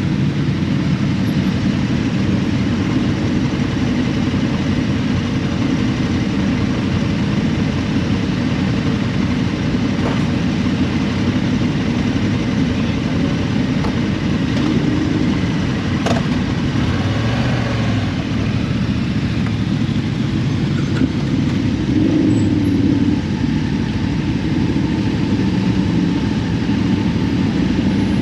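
Steady engine and wind noise of a motorcycle being ridden on the road.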